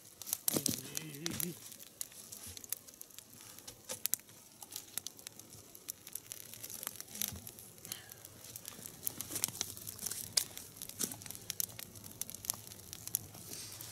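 Log fire crackling, with sharp, irregular pops and snaps throughout as a freshly added log catches. A short voice sound is heard about a second in.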